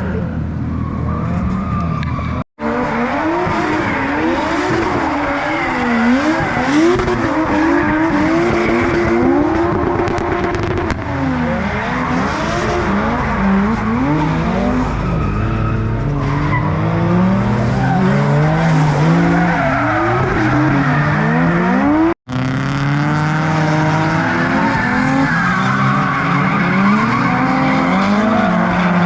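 Several drift cars running close together in a train, their engines revving up and down with the throttle and their tyres squealing. The sound cuts out abruptly twice, about two and a half seconds in and again near the end.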